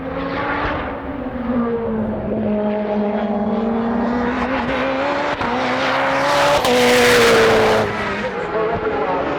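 Time attack race car engine at high revs on the circuit, its pitch moving up and down as it drives, swelling loudest about seven seconds in as it passes closest.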